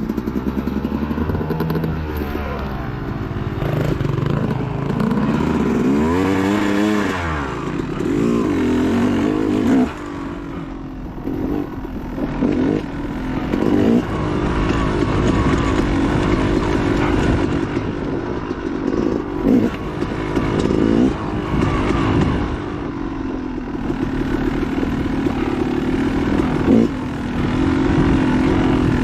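Dirt bike engine revving up and falling back repeatedly as it is ridden hard on rough off-road trail, with scattered clattering knocks.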